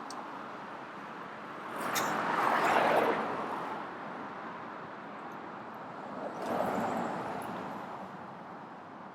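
Street traffic: two cars pass close by, the louder one about two seconds in and another near seven seconds, each swelling and fading over a steady hum of city noise.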